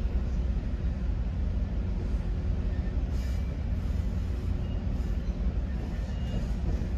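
Steady low rumble of a GO Transit bilevel passenger coach running on the rails, heard from inside the car, with a few faint, brief high-pitched squeaks.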